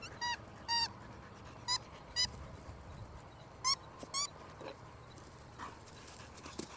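An animal giving short, honk-like pitched calls in three pairs, each pair about half a second apart.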